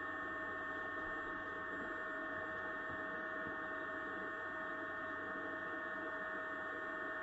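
Steady electrical hum with several constant whining tones from the running power setup: a natural-gas inverter generator just started and feeding a solar inverter.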